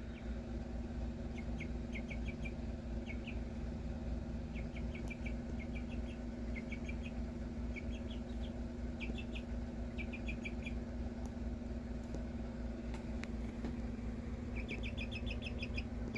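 Small house chicken chirping in quick runs of three to five high, songbird-like peeps, repeated every second or two with a pause partway through. A steady low hum runs underneath.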